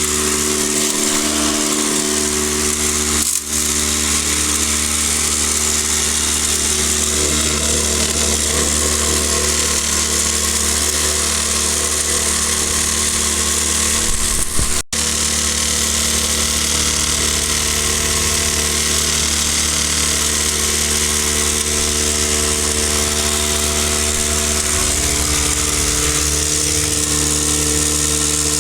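Electric non-air drywasher (Backcountry Tornado F2) running steadily under load as dry gravel is fed through, a constant machine hum with several steady tones, briefly dipping twice.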